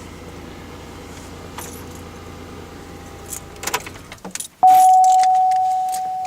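A 3800 Series 3.8-litre V6 idles steadily and dies away about four seconds in. Keys jingle and click just before and after it stops. Then a single loud ding, one clear tone, starts suddenly and rings on, slowly fading.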